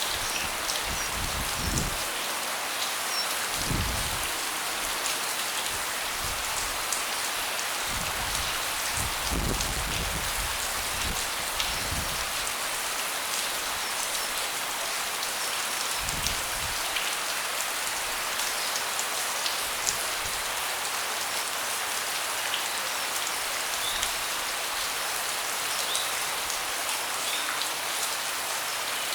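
Steady rain falling on a deck, a dense even hiss with individual drops ticking through it. A few brief low rumbles come in the first half.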